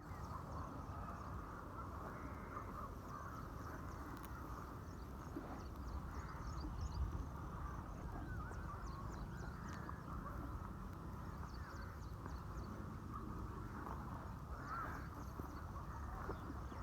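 Many birds calling and chirping over a steady low rumble.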